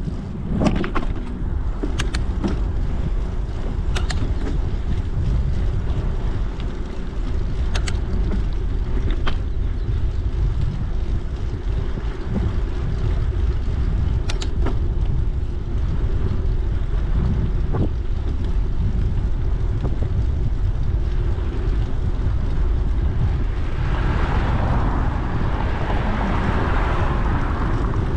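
Wind buffeting the microphone and tyre rumble from a bicycle ride, with a few sharp clicks or rattles from the bike early on and a louder hiss near the end.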